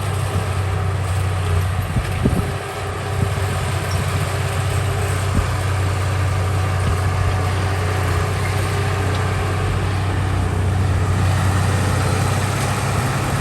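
Heavy diesel engine running steadily at low revs, a constant low hum, with a couple of short knocks in the first few seconds.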